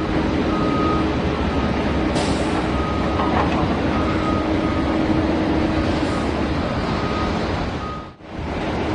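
Steady vehicle engine running noise with a low hum, overlaid by a series of short high beeps about every half second, like a reversing alarm.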